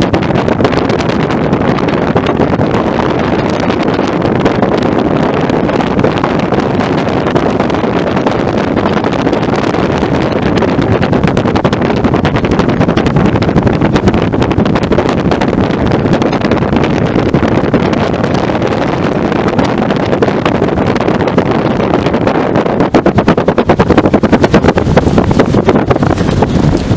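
Strong wind of about 20 to 30 mph blowing across the microphone: a loud, steady roar of noise.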